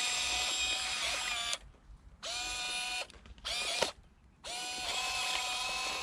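Huina V4 remote-control excavator's electric motors and gearboxes whining steadily at one pitch, cutting out briefly three times around the middle and starting again as the controls are worked.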